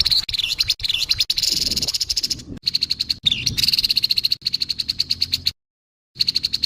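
Grey-headed babbler giving its harsh call: a fast run of scratchy rattling notes that breaks off briefly near the end and starts again.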